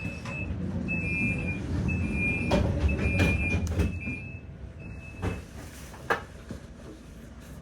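Tram door warning beeps, a two-tone beep repeating about once a second, over the low rumble of the tram. Several knocks and thuds follow, the loudest about six seconds in, typical of the doors sliding shut.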